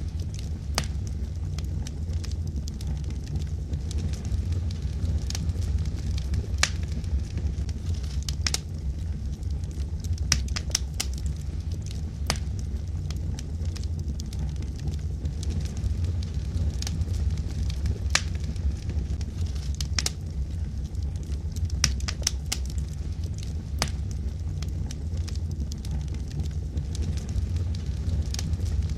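Wood fire burning in a fireplace: scattered sharp crackles and pops from the burning logs over a steady low rumble of the flames.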